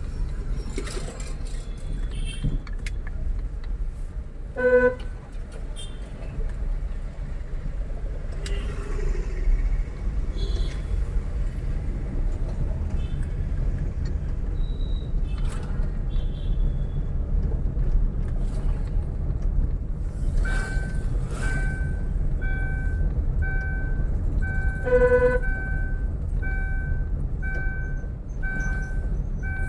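Steady low road and engine rumble of a moving vehicle, with two short horn toots, one about five seconds in and one about twenty-five seconds in. From about two-thirds of the way through, an electronic beep repeats about once a second.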